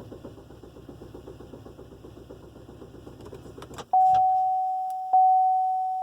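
2016 Buick LaCrosse's starter cranking the engine with a steady rhythm, but the engine doesn't catch: the car's crank-but-no-start fault, which the owner says is not the battery. After about four seconds the cranking stops with a couple of clicks, and a loud single-tone warning chime starts, striking about once every 1.2 seconds.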